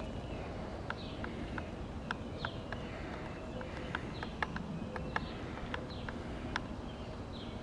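Outdoor ambience: birds giving short falling chirps now and then, over a steady low rumble, with scattered sharp clicks throughout.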